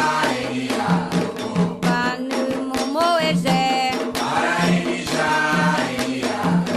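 Candomblé ritual chant sung by voices over struck percussion, with sharp drum or hand strikes falling several times a second under the singing.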